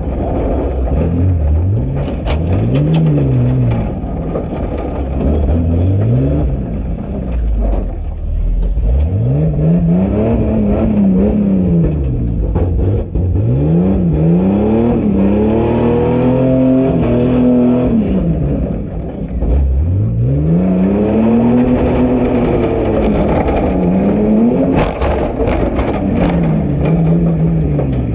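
Jeep Cherokee engine revving hard under load and dropping back, over and over, its pitch rising and falling every few seconds, with a few sharp knocks about two seconds in and near the end.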